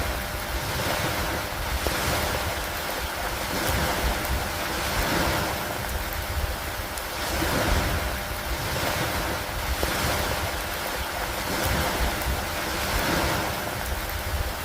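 Steady rain over lake water, with a deep rushing noise that swells and eases about every two to three seconds.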